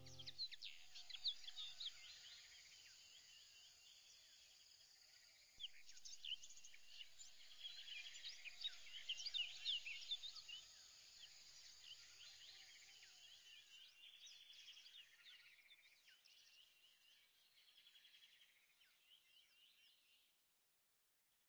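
Faint chorus of small birds chirping: many quick, high chirps overlapping, busiest in the middle and thinning out until they stop shortly before the end.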